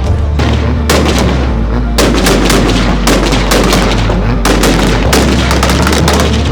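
Rapid, loud bangs and crackles of car exhaust backfiring, typical of a two-step launch limiter shooting flames, over music with heavy bass.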